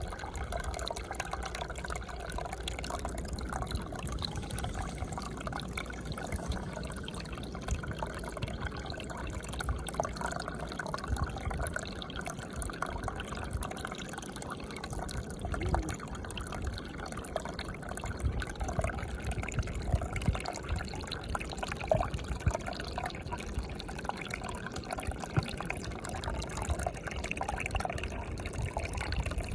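Water running and trickling steadily, with frequent small splashes.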